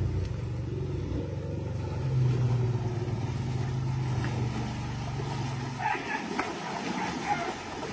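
Elephant rumbling: a low, steady call held for about six seconds that then fades, with short higher calls near the end.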